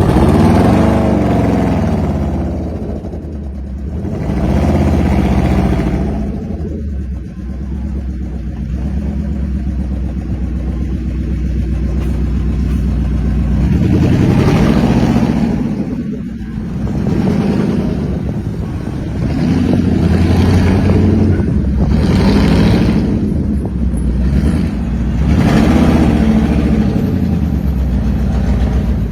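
Citroën GT's V8 engine running loudly and revving up several times, its pitch rising and falling between surges.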